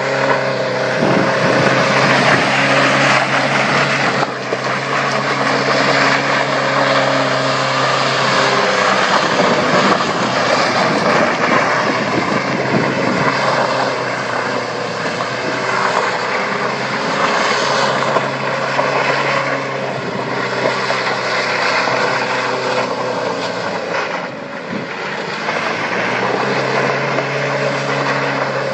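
Heavy vehicle engine running at steady revs under a loud rushing noise, its low hum holding for several seconds at a time and shifting pitch a few times.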